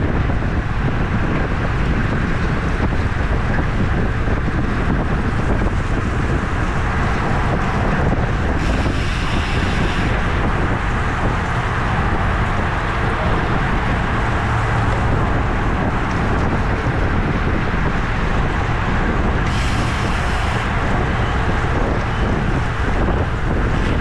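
Steady wind buffeting the microphone of a camera on a moving bicycle, with two brief hissing bursts about nine and twenty seconds in.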